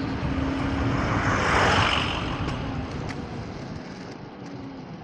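A vehicle passing on the street, its noise swelling about two seconds in and then fading, with a steady hum underneath that dies away as everything grows quieter.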